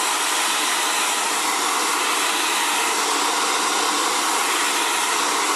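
Xtava Allure 2200-watt ionic ceramic hair dryer running steadily, a constant rush of blown air.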